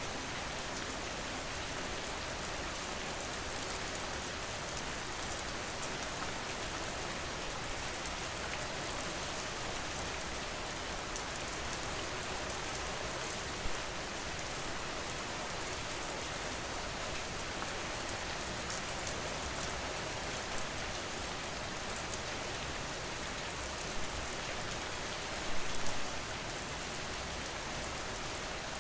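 Steady rain falling, an even hiss with fine drop ticks, with a few louder drops about halfway through and again near the end.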